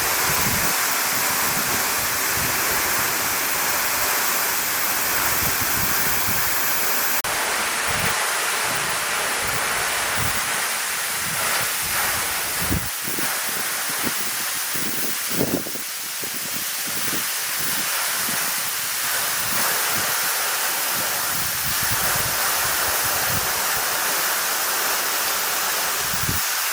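Steady rush of water from Shiraito Falls, a roughly 38 m vertical waterfall, with irregular low buffeting of wind on the microphone.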